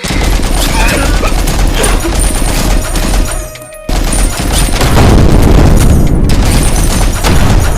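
Loud rumbling, crackling noise of a crash or explosion sound effect, starting suddenly and breaking off briefly about three and a half seconds in before resuming.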